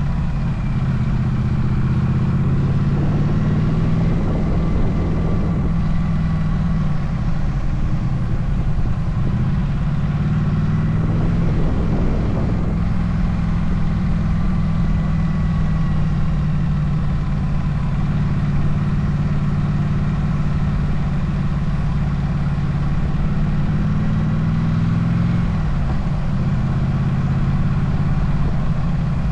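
Motorcycle engine running steadily while riding, its pitch stepping up or down a few times as the throttle and gears change. A rushing noise swells twice, about three and eleven seconds in.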